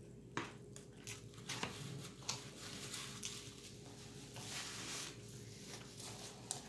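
Close-up mouth sounds of chewing salad, with scattered small clicks and crackles of a plastic fork and the food tray.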